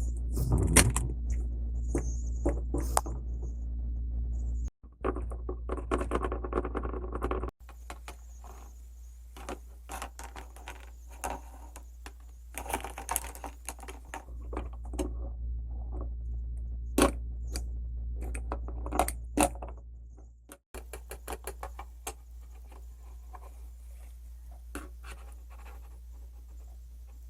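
Small hard plastic toy pieces clicking and clattering as they are handled and set down, over a low steady hum. The sound cuts out briefly three times.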